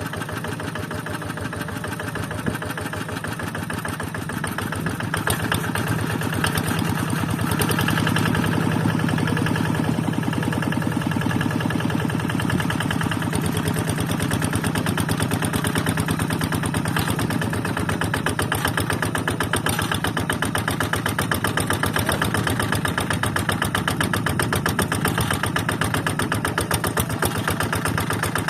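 Kubota single-cylinder diesel engine of a Quick Zeva G3000 two-wheel hand tractor, running steadily with a fast, even firing beat while it works a flooded rice paddy. It grows louder about five seconds in, then holds.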